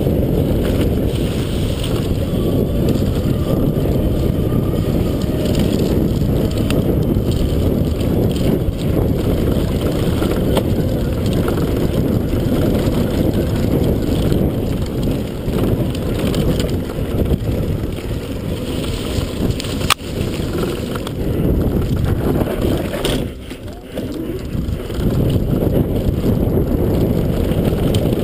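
Wind buffeting the microphone and the rattle of an electric downhill bike running fast over rough trail, a dense low rumble throughout. A sharp knock about two-thirds of the way in, and the noise dips for about a second a little later.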